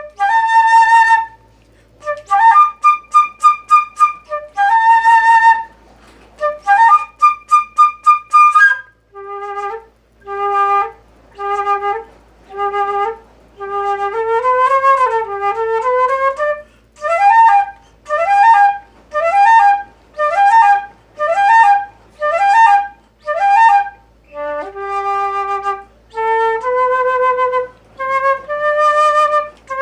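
Solo flute playing a single melodic line. For the first nine seconds it plays high phrases of quick repeated notes. After that it moves to lower, longer notes, many of them sliding up into pitch.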